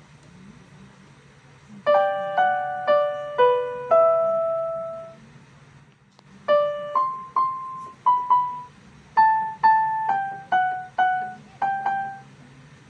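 BLW EK61-T electronic keyboard played with a piano voice. Two short melodic phrases of struck notes, each note ringing and dying away, begin about two seconds in, with a brief pause between them.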